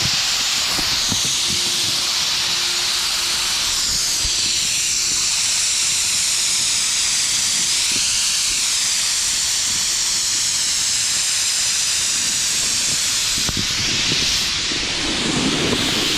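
Snowmaking gun sending out a loud, steady hiss of air and water spray, with a faint steady hum underneath. The hiss wavers as the distance to the gun changes.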